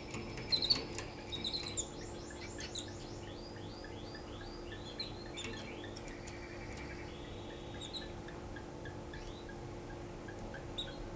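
Canary singing its courtship song: quick runs of repeated sweeping notes and rolling trills, loudest in the first two seconds, then softer repeated notes, over a steady low hum.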